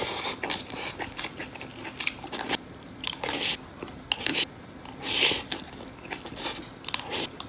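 Close-miked mouth sounds of a person eating a rice bowl of pork slices stir-fried with garlic chive flowers: chewing and biting in irregular bursts every second or two.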